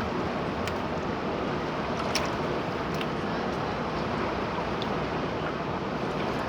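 Steady rushing of a river, with a few faint clicks.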